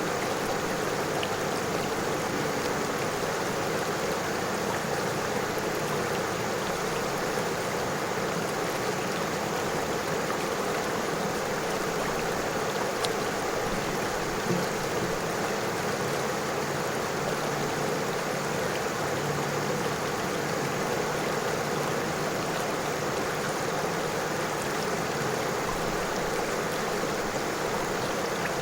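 River water flowing over stones: a steady, even rushing babble, with a faint tick or two about halfway through.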